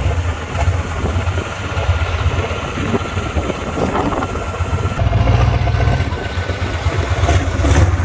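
Large vehicle engine running steadily at low revs, a deep rumble that grows louder about five seconds in.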